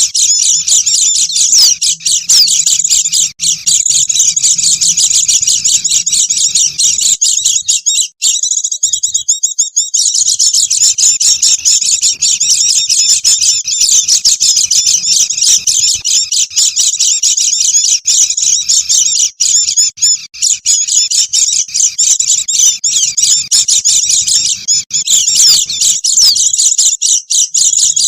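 Many white-eyes (pleci) chattering at once: a dense, continuous stream of high, quick twittering chirps, used as a lure call to draw wild birds. The chorus breaks off for a moment about eight seconds in.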